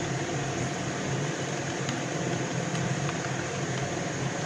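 Yoko mini washing machine running through its wash, its motor making a steady low hum as it tumbles the clothes.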